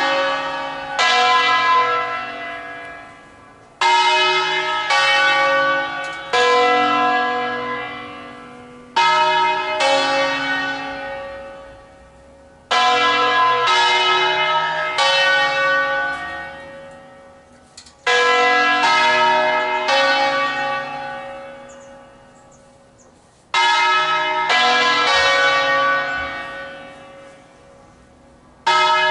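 The large bronze church bells of a nine-bell peal in B (Angelo Ottolina, 1953), rung for an office toll. They strike in groups of two or three strokes, a new group every four to five seconds, and each stroke rings on and fades before the next group.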